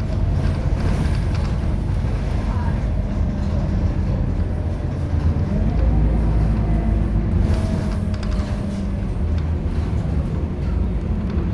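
Scania K230UB city bus's five-cylinder diesel engine running under way: a steady low drone whose pitch rises and falls as the bus pulls and changes speed.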